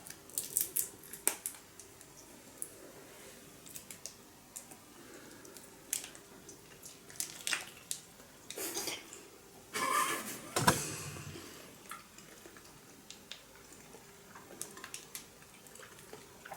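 Small plastic candy packaging being handled and opened close to the microphone: scattered clicks, taps and short crinkling rustles, with a louder knock about ten and a half seconds in.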